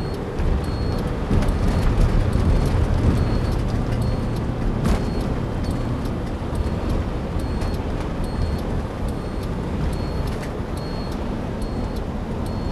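Bus running on the highway, heard from inside the cabin: a steady low rumble of engine and road noise. Over it a turn-signal flasher clicks on and off about once a second, signalling a lane change.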